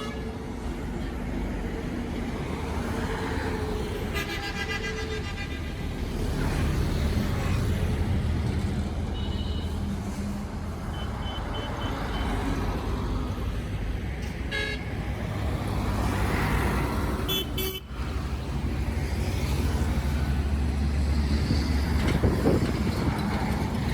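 Highway traffic: cars and heavy trucks passing one after another over a continuous low rumble, swelling and fading with each pass. A vehicle horn sounds briefly about four seconds in, and a few short high tones come later.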